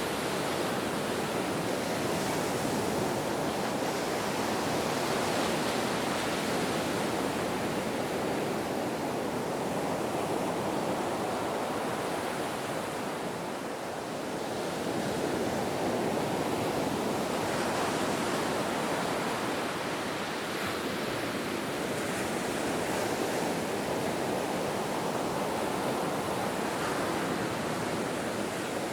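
Ocean waves breaking and washing in a continuous surf, swelling and easing gently, with a slight lull about halfway through.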